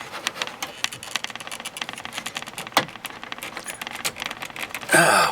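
Many small irregular clicks and rattles of a stubborn plastic wiring connector in a Ford F-150's dash harness being worked by hand to pull it apart.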